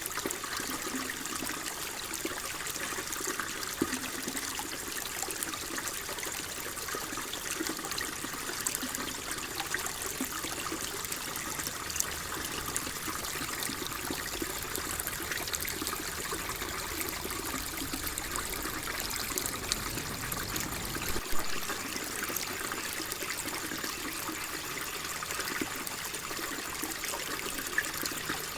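Water flowing steadily, a continuous trickling wash with many small splashes and drips throughout.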